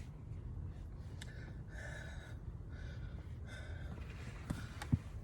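A person breathing heavily close to the microphone, in short repeated breaths, over a steady low rumble, with a couple of sharp clicks.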